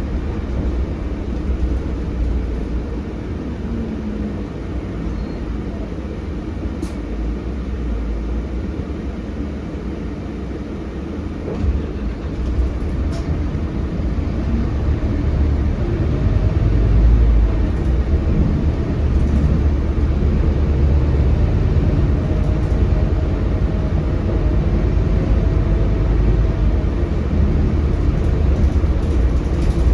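Ride inside a Scania K320HB bus with its Scania DC9 engine: a steady low engine and road rumble that gets louder about halfway through as the bus works harder. A faint steady whine comes in later on.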